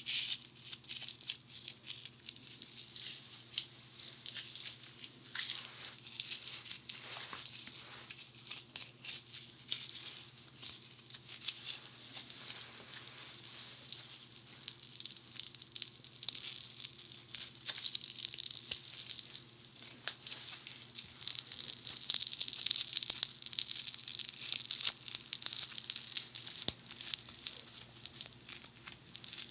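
Funny Foam soap foam crackling and fizzing as it is pressed and worked against the ear microphones of a binaural dummy head: a dense stream of fine pops and crackles. It grows busier and louder about two-thirds of the way through.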